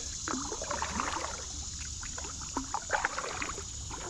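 Water splashing and dripping with small knocks around a kayak, in short irregular bursts, over a steady high buzz of insects.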